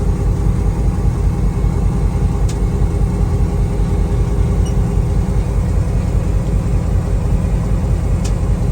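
Diesel locomotive engine idling with a steady low rumble and hum, heard from inside the cab, with a couple of faint ticks.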